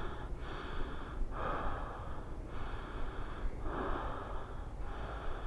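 A person breathing heavily, about one breath a second.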